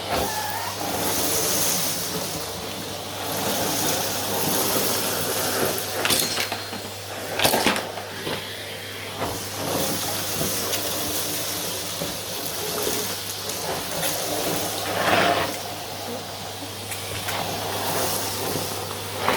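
Vacuum cleaner running with a steady motor hum and rushing air, with a few brief louder surges of noise along the way.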